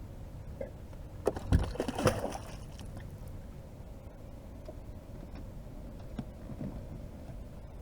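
A short cluster of knocks and clatter about a second and a half in, over a steady low rumble of wind and water against a boat.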